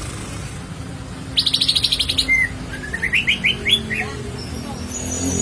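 Cucak ijo (green leafbird) singing: a fast trill of about ten notes a second, then a run of five or six quick rising notes.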